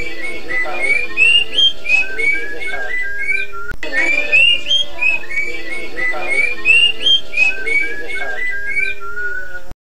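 Whistled song of a toche, an oriole: clear rising and falling notes in quick repeated phrases. There is a brief break about a third of the way in, where the phrases start over, and the song stops abruptly near the end.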